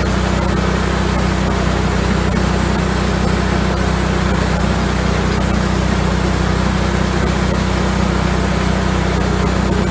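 Wood-Mizer LX150 bandsaw sawmill running steadily, its engine holding an even pitch under the hiss of the band blade sawing a slab from a sweetgum log.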